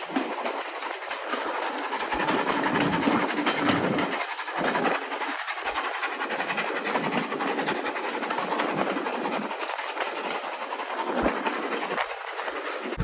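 Steam-hauled passenger train running along the line, a steady rumble and rush with the wheels clicking over rail joints.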